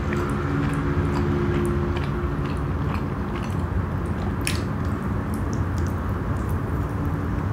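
Close-up chewing of soft chocolate-filled naan bread, with small wet mouth clicks and one sharper click about halfway through.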